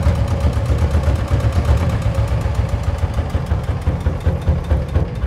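EM185 8.5 hp single-cylinder diesel engine running with an even, rapid chugging beat, gradually getting quieter toward the end as it is being shut down.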